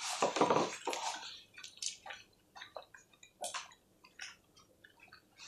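Close-up chewing of naan bread: scattered small wet mouth clicks and smacks, after a short noisy burst in the first second.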